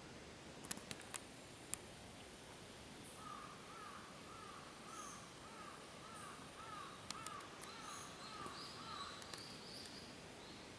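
A bird calling over and over: about a dozen short, arched notes at roughly two a second, over a faint steady hiss. A few sharp clicks come in the first two seconds.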